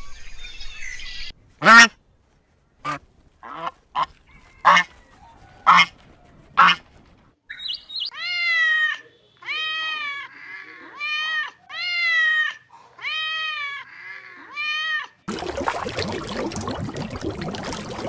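Waterfowl calling: seven short, sharp calls, then six longer calls that rise and fall in pitch. A few seconds of steady hiss-like noise follow near the end.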